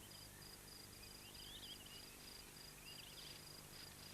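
Faint outdoor ambience: an insect chirps steadily in a high-pitched pulsing trill of about four pulses a second, with two brief faint chirps, one about a second and a half in and one about three seconds in.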